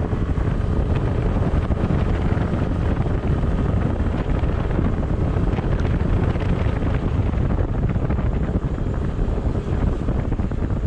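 Steady rumble of a vehicle travelling on the road, with wind noise on the microphone.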